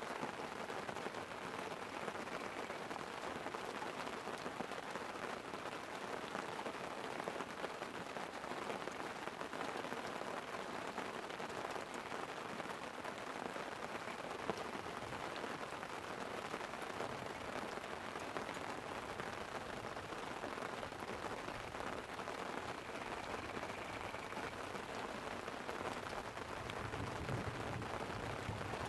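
Light rain falling steadily on a tent, an even hiss of drops with an occasional louder tick. A low rumble of thunder builds in near the end.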